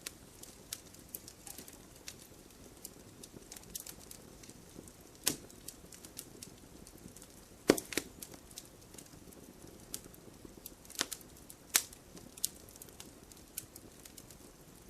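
Firewood burning in a fireplace, crackling: irregular sharp pops and snaps over a faint steady hiss, a few louder pops standing out past the middle.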